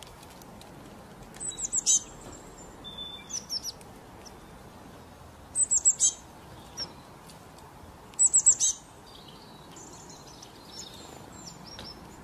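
Small birds chirping: three bursts of four or five quick, high, falling notes, with fainter twitters between, over a steady low hiss.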